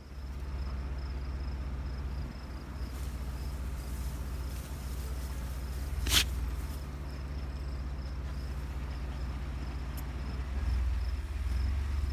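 Insects chirping steadily in a high, even trill over a low steady rumble, with a sharp click about six seconds in.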